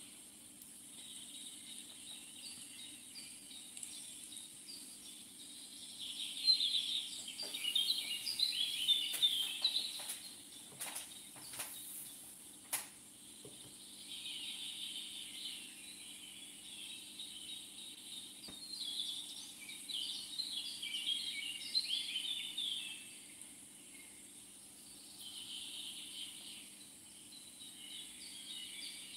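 Outdoor ambience of birds chirping in bunches of a few seconds each, over a steady high hiss. A few sharp clicks come about a third of the way through.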